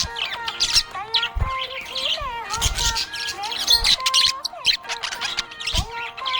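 Budgerigar chirping and warbling in quick, busy runs of short calls, over background music.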